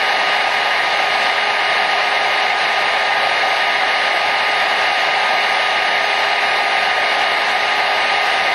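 Hair dryer running steadily: an even rush of blown air with a faint motor whine held at a constant pitch, with no change in level.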